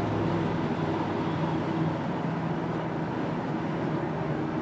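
Steady low hum inside a 1999 Ford Crown Victoria at freeway speed, over tyre and road noise: a drone that comes in above about 40 mph and that the driver likens to a World War II bomber.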